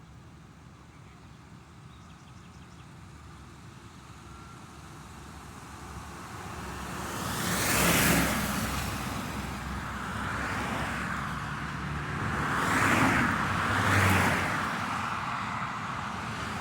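Road traffic: cars passing by one after another, each swelling and fading as a hiss of tyres and engine. The first loud pass comes about halfway through and two more come close together near the end.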